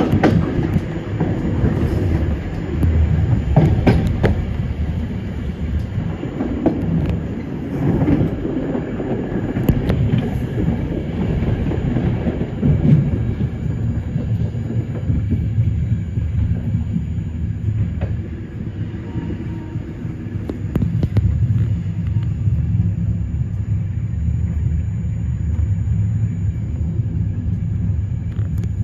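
Passenger train running through a tunnel: a steady low rumble of wheels on the rails, with scattered clacks as the wheels pass over rail joints.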